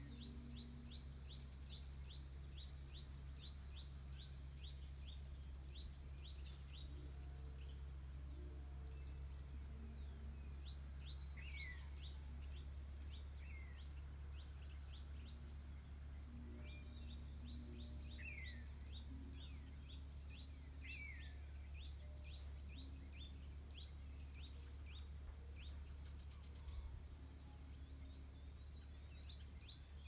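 Faint birdsong in the countryside: small birds calling in quick runs of short high chirps, with a few falling whistled notes, over a steady low rumble.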